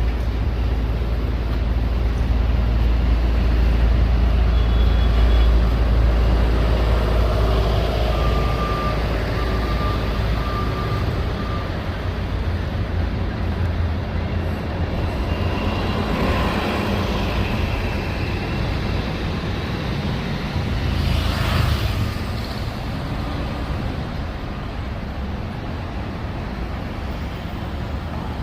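Road traffic with a heavy vehicle's deep engine rumble, loudest in the first few seconds. A short run of beeps comes around nine to eleven seconds in, and a brief hiss comes about three-quarters through.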